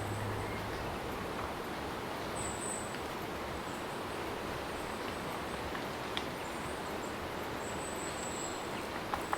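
Steady outdoor ambience with a few sharp clicks and several faint, high-pitched drawn-out chirps from a bird or insect.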